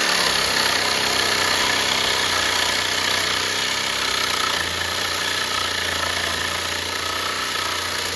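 Sawzall reciprocating saw running steadily as it cuts through a tangled wire-braided hydraulic hose.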